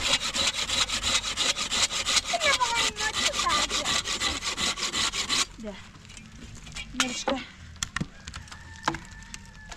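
Fast, even rasping strokes, about six a second, which stop suddenly about five and a half seconds in. A few scattered knocks follow.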